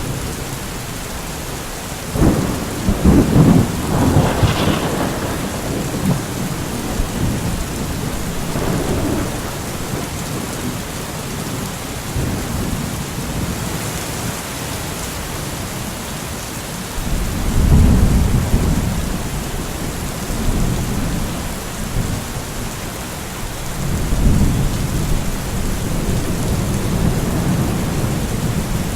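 Steady rain falling during a thunderstorm. A thunderclap breaks about two seconds in and rolls on for a few seconds, and two lower, deeper rumbles of thunder follow, one past the middle and one near the end.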